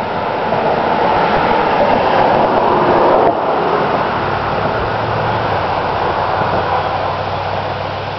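A passing road vehicle: a steady rushing noise that builds to its loudest about three seconds in, drops off sharply, then gives way to a steady low hum.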